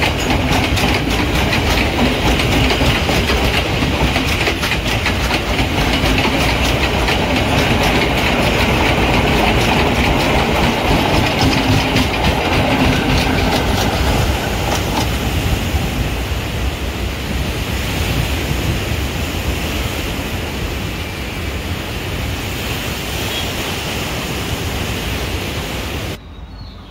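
Passenger train coaches rolling past close by, the wheels clattering over the rail joints in a fast run of clicks. The clatter fades over the second half as the last coach draws away, and the sound cuts off abruptly near the end.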